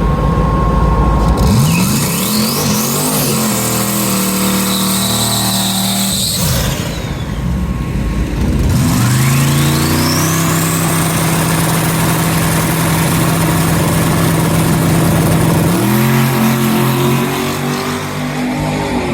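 Drag race car launching and accelerating hard down the strip, its engine note climbing in pitch, breaking at gear changes and climbing again with a rising high whine. Near the end the note drops away as the driver lifts off.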